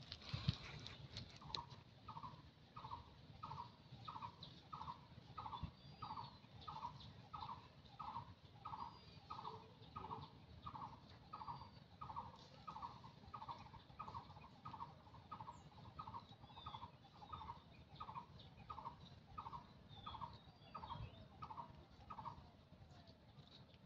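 Faint, monotonous bird call: one short note repeated evenly a little under twice a second, stopping near the end. Fainter high whistles from other birds come in now and then.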